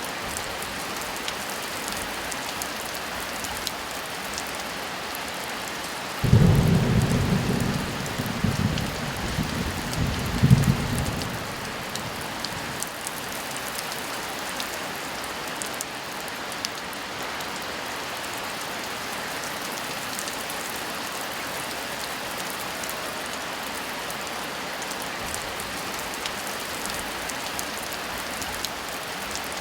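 Steady heavy rainfall with a thunderclap about six seconds in that starts suddenly, rumbles low for about five seconds with a second peak near its end, then fades back under the rain.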